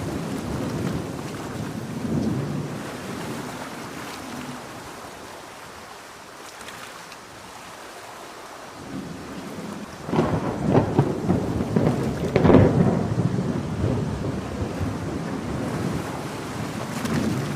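Steady rain hiss during a thunderstorm. Just past the middle a loud roll of thunder breaks in and rumbles for several seconds before fading.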